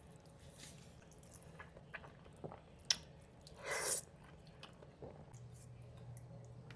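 Close-miked eating sounds: chewing and biting, with scattered small wet clicks and one louder slurp or smack about four seconds in.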